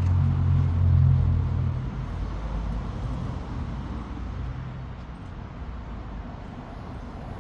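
A motor vehicle's engine running close by, a low hum that is loudest in the first two seconds and then fades away.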